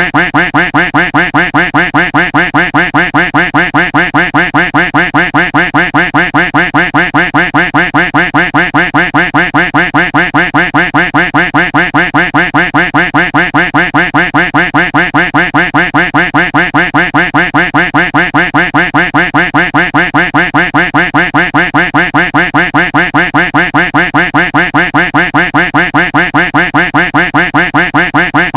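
Duck quack sound effect looped without a break, quacks repeating evenly at about three a second.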